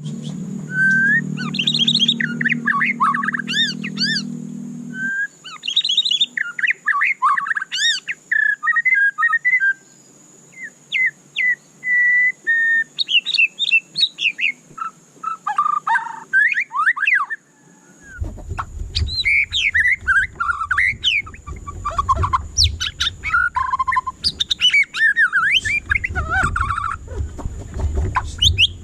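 White-rumped shama singing a long, varied run of whistled phrases, quick trills and rising and falling sweeps, broken by short pauses. A low hum lies under the first few seconds and a low rumble under the second half, with a faint steady high tone throughout.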